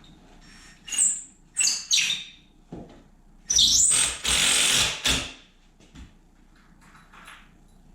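A bird squawking: three short calls, then a longer harsh call lasting more than a second.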